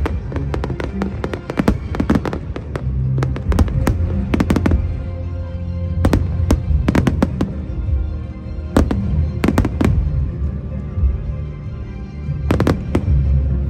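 Fireworks going off in quick clusters of sharp bangs, with music playing underneath.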